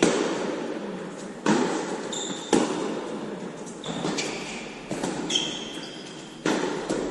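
A tennis rally: sharp racket hits and ball bounces about a second apart, each with an echoing tail, and short shoe squeaks on the court between them.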